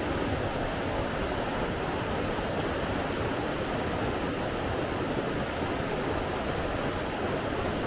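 Steady rushing water: an even, unbroken rush with no pauses or swells.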